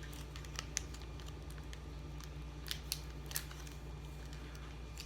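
A chocolate bar's wrapper being opened: a scattering of short, sharp crinkles and clicks over a low steady hum.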